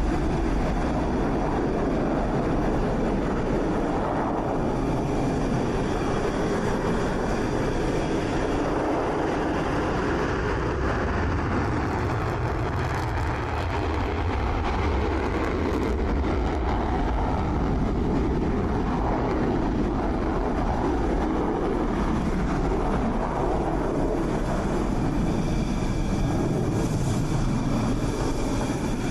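Dassault Rafale fighter jets' engines running with a steady, even noise that swells and eases slightly in places, without the clear rise and fall of a fly-by.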